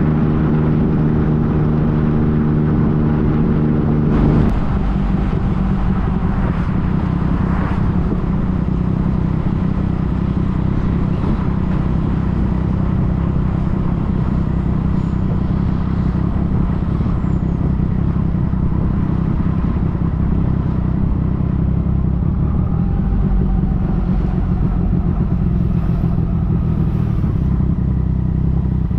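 Yamaha FJ-09's three-cylinder engine running under way, with wind and road noise; its note drops about four seconds in, as with a gear change or easing off the throttle, then holds steady.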